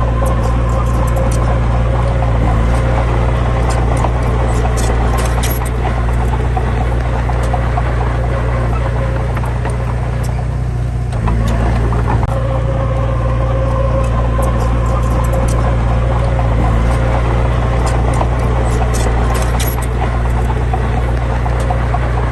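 Heavy diesel engine running steadily at a constant low pitch, with clusters of short high squeaks and clicks from metal parts.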